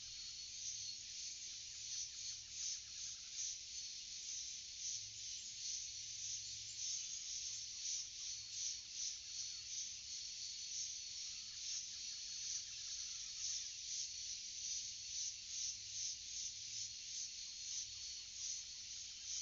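Forest insect chorus: a dense, high-pitched pulsing trill, with a few faint bird calls.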